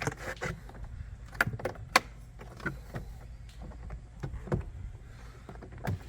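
Irregular clicks, taps and rustles of hands handling wiring and plastic dash trim inside a pickup cab, the sharpest click about two seconds in, over a steady low hum.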